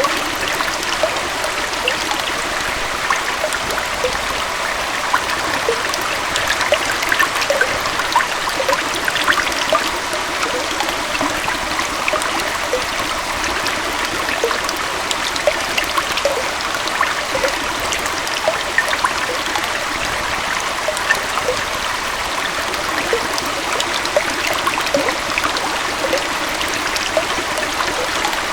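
A small waterfall and stream flowing steadily, an even rushing of water with many small splashes and trickles through it.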